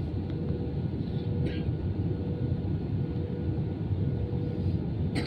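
Steady low rumble of an Airbus A320's cabin in flight: engine and airflow noise, with a faint steady hum above it.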